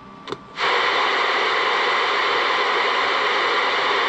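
CB radio static: after a faint click, a steady loud hiss opens suddenly about half a second in and holds, the receiver picking up an incoming transmission before any voice comes through.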